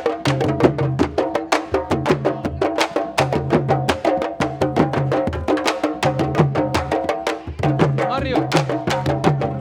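Candombe drumming: fast, sharp stick strokes, including clicking strikes on the drums' wooden shells, over deep drum tones repeated in a steady pattern, with sustained pitched sounds layered above.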